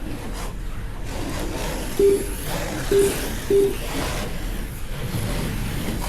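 Slot cars running laps on the track, a steady whir of small electric motors and guide braids, with three short beeps about two, three and three and a half seconds in.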